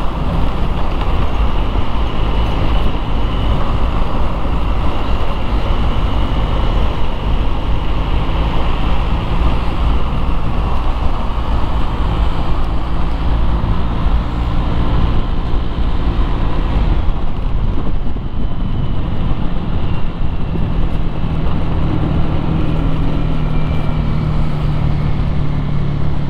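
Street traffic noise: motor vehicles running steadily, with a low engine drone under a continuous rush of road noise. The drone grows stronger near the end.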